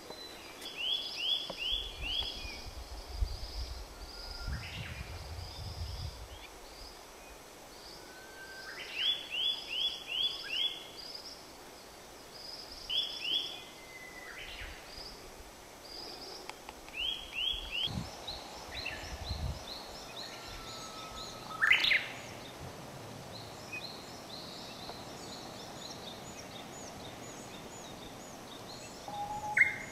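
Narcissus flycatcher singing: short phrases of four or five quick, high notes, repeated every few seconds. In the second half a fainter run of evenly repeated high notes goes on, and there are two sharp knocks, one past the middle and one near the end.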